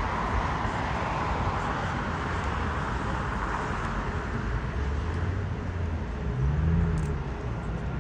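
Jet airliner engine noise: a broad, steady roar that slowly fades, with a low rumble underneath and a short low hum that rises and falls near the end.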